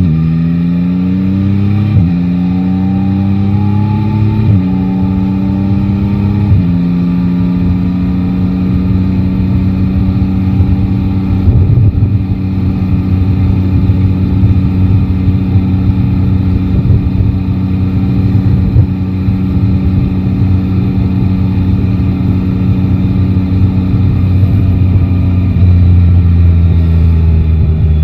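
Three-cylinder motorcycle engine pulling up through the gears, with three upshifts in the first seven seconds. It then holds a steady cruise and eases off slightly near the end, over wind and road noise.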